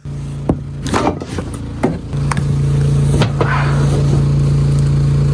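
Portable generator engine running steadily with a low hum, louder from about two seconds in, with several sharp knocks and clicks over it.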